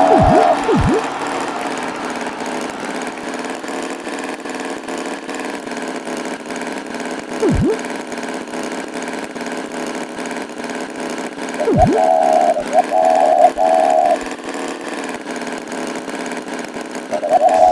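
Cartoon tractor engine running steadily, a buzzing drone. Quick swooping sound effects come in a few times, and short high-pitched calls break in around two-thirds of the way through and again near the end.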